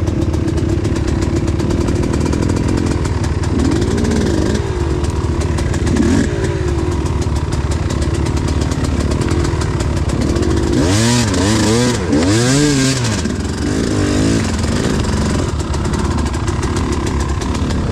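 Enduro motorcycle engine running, with the throttle blipped several times, its revs rising and falling; the biggest revving comes in a double sweep about two-thirds through, along with a hiss.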